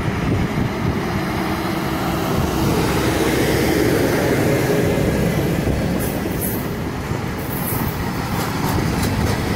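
Work train rolling slowly past close by: a steady rumble of wheels on the rails, with a faint held tone a few seconds in. Sharp clicks from the wheels crossing rail joints come in the second half.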